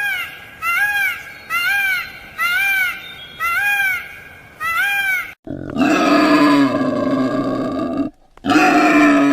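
A series of six short, high animal calls, each rising then falling in pitch, about one a second. After an abrupt cut comes a louder, continuous animal noise with a steady low tone.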